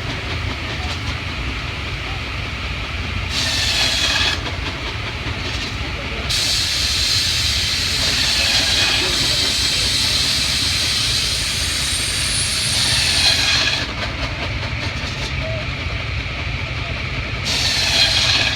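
Steam hissing from a steam engine, coming in bursts of a second or so and one long release of about seven seconds, over a steady low rumble of machinery.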